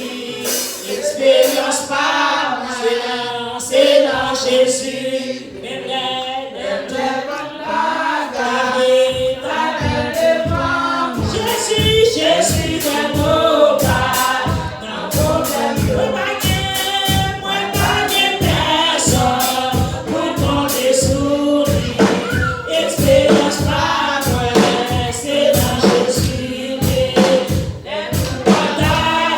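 Gospel song sung by a group of voices together. About ten seconds in, a steady low beat of about two strokes a second joins the singing.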